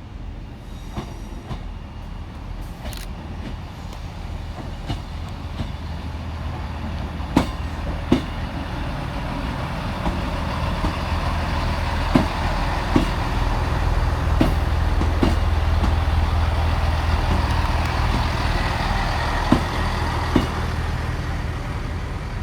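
Class 158 diesel multiple unit arriving into a terminus platform. Its engine hum grows steadily louder as it draws in, with a scattering of sharp clicks from the wheels on the track.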